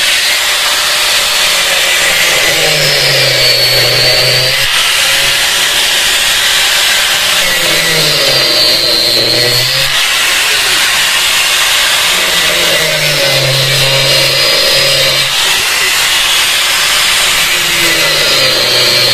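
An angle grinder runs continuously, cutting through parts of a top-load washing machine's tub assembly. About every five seconds the blade bites harder and a heavier, lower-pitched cutting sound comes in.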